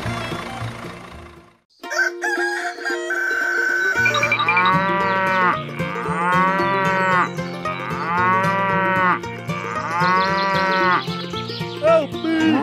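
Cow moos: four long calls about two seconds apart, each rising and falling in pitch, over background music with a steady beat. The music briefly fades out about a second and a half in.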